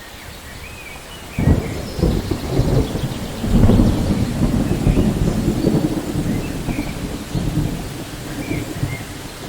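Thunder rumbling over steady rain: a low roll breaks in suddenly about a second and a half in, swells around four seconds and keeps rolling under the rain.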